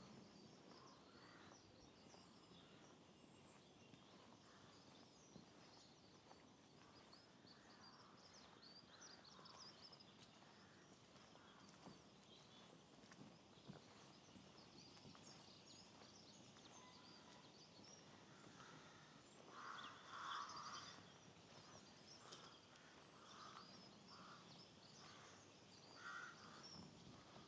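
Faint birdsong, many small birds chirping at once, over a soft steady background hiss. About two-thirds of the way through a louder, lower bird call starts and repeats several times to the end.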